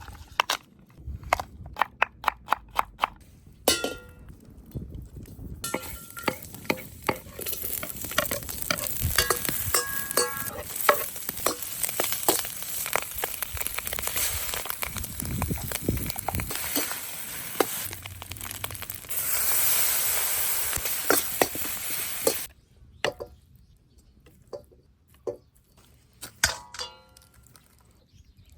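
Fried rice sizzling in a Chinese wok as it is stir-fried, with frequent sharp metal clanks and scrapes of the cooking utensil against the wok. The sizzle swells loudest for a few seconds about two-thirds of the way through. It opens with a run of quick, even knocks and ends with a few sparse clinks.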